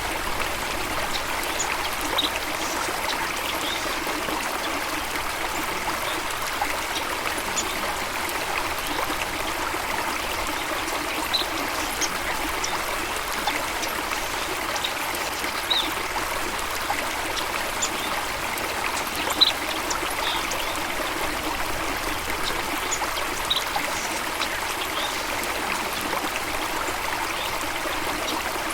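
Steady running water of a stream, with short, high bird chirps scattered here and there.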